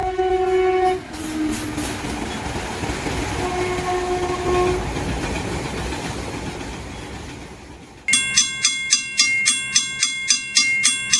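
A train horn blast cuts off about a second in. A passing train's rumble follows, with a second, shorter horn blast, and the rumble fades away. About eight seconds in, a railroad crossing alarm bell starts ringing in a fast, steady beat of about three dings a second.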